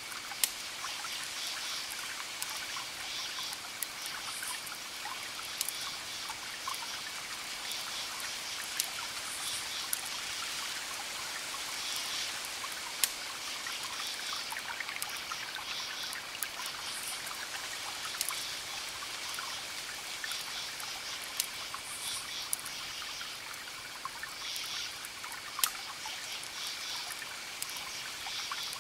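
Wood fire crackling: a steady hissing bed with sharp pops every second or two, some louder than the rest. A repeated high chirping runs in the background.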